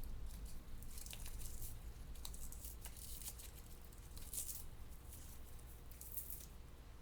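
Light rustling and crinkling of paper flowers and vines being handled and arranged, in short scattered strokes, over a faint low hum.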